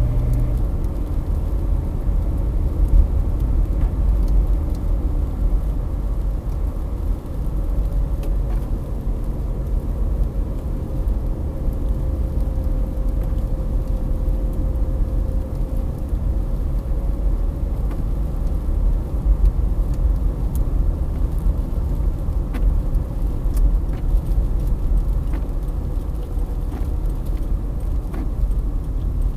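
Strong gusty wind buffeting the microphone: a deep, steady rumble with a faint whistle held in it.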